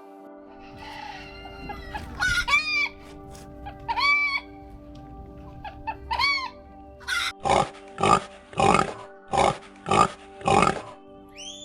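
Animal calls over soft, steady background music: a few short arching calls, then six loud calls in an even rhythm, a little under two a second.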